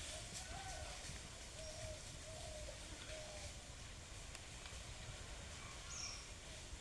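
Faint open-air ambience with a series of short, clear bird calls over the first few seconds and a single high chirp near the end.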